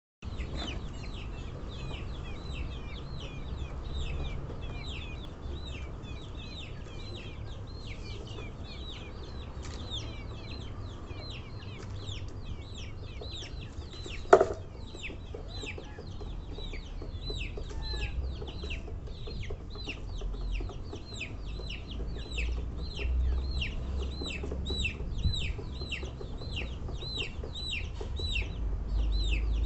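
A chicken family: chicks peeping constantly in short, high, falling calls, two or three a second. A single sharp knock is heard about halfway through, and a low rumble grows heavier near the end.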